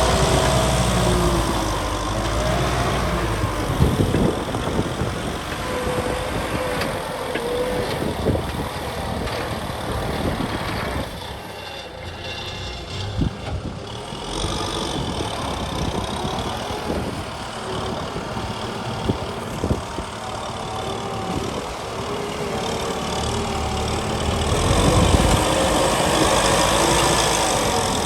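Kubota M6040 tractor's diesel engine running, its pitch rising and falling as speed changes, with a few sharp knocks. It grows quieter in the middle and loudest near the end.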